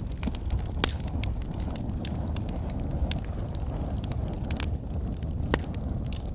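Wood fire in a fireplace: logs burning with a steady low rumble of flames and frequent sharp crackles and pops, a few louder snaps among them.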